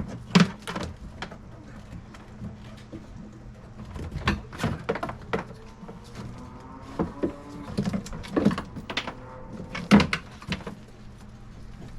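Irregular hard knocks, clicks and rattles of parts and tools being handled while a personal watercraft is taken apart, with the loudest knocks about half a second in and about ten seconds in, over a low steady hum.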